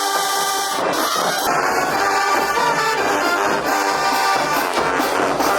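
Brass band music, with trombones and trumpets playing.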